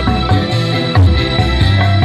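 Live band music playing, with sustained chords over a strong bass line.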